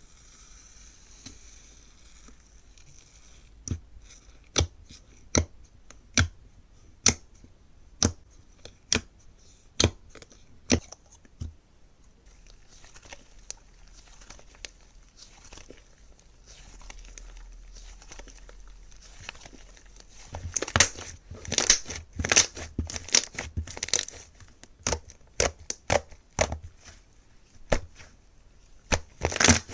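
Slime being pressed, stretched and pulled apart by hand, giving crisp pops and crackles. A string of sharp pops comes about once a second at first, the middle goes softer, and from about two-thirds of the way through the crackles come thicker and louder.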